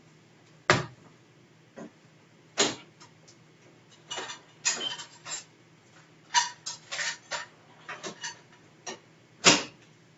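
Close-up eating noises from a man working through a large sandwich: irregular clicks and crackles, with three sharper knocks about a second in, between two and three seconds, and near the end.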